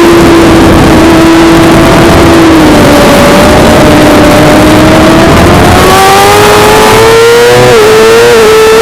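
Suzuki GSX-R600's inline-four engine running at high revs under load. The pitch sags, then climbs steadily, with a short dip about three-quarters of the way through before climbing again.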